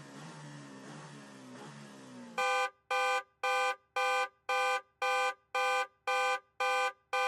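Electronic countdown timer beeping: about ten identical short beeps, two a second, starting a couple of seconds in, over the last seconds before the quiz answer. Before the beeps there is only a faint low background tone.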